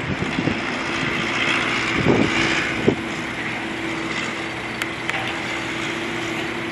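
Steady vehicle noise with wind on the microphone, joined by a steady low hum about two and a half seconds in.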